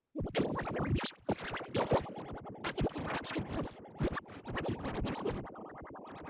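Cartoon audio chopped into rapid, scrambled fragments by a shuffle edit effect: bits of voices and music cut off and jumbled so that it sounds like record scratching. It starts after a very short silence.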